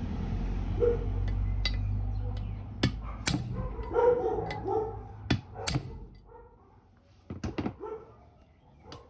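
Sharp hammer knocks on the cylinder head's valve retainers, knocking the valve keepers loose to remove the valves; the knocks come one by one or in pairs at uneven gaps. A low rumble runs under the first couple of seconds.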